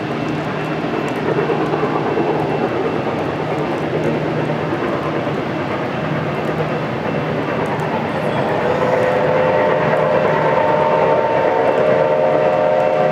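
Locomotive 2102 running by with a steady rumble. About eight and a half seconds in, it sounds one long, steady chord signal.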